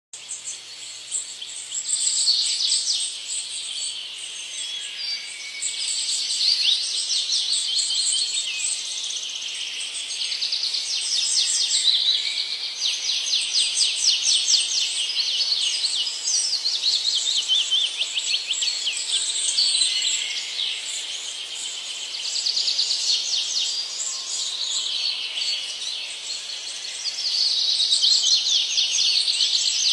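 Several birds singing at once: dense, overlapping chirps and rapid trills that swell and fade in waves.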